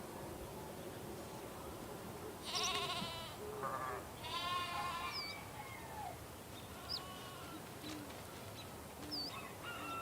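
Sheep bleating: two wavering bleats about two and a half and four seconds in, with a shorter one between them.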